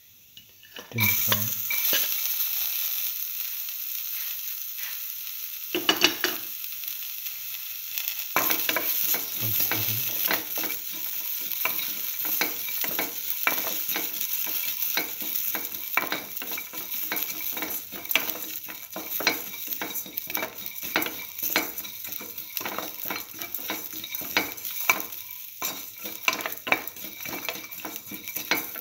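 Shallots, ginger and garlic sizzling in hot oil with mustard seeds in a metal pan, the sizzle starting about a second in. From about eight seconds a spatula scrapes and knocks against the pan over and over as the mixture is stirred.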